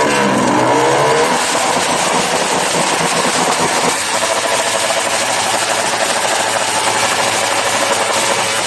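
Motorcycle engine revved hard: its pitch climbs over the first second, then it is held flat out at high rpm, loud and steady.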